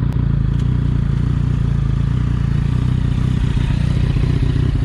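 Vehicle engine running steadily: a loud, even low drone that does not rise or fall.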